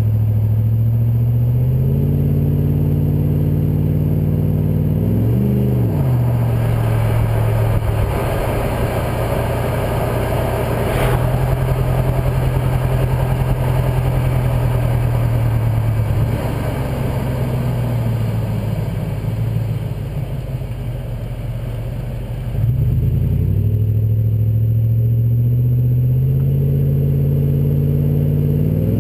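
2005 Jeep Grand Cherokee's 5.7L Hemi V8 through a Borla aftermarket exhaust, running at a steady low speed with a quick rev about five seconds in. Then comes a longer stretch at higher engine speed that eases back down, a sudden rise again past the twenty-second mark, and another short blip near the end.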